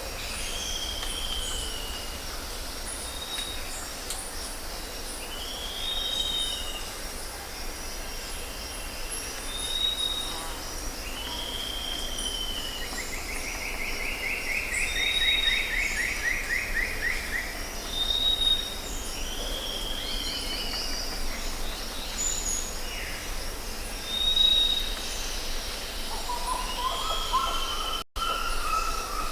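Several birds calling. A short arched chirp and a brief high whistle repeat every couple of seconds, a long falling trill comes in the middle, and lower calls come near the end, all over a steady high chirring background.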